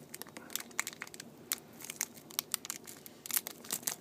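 Irregular small clicks, ticks and crinkles of tiny iPhone 4S button parts being handled with hand tools, coming thicker near the end.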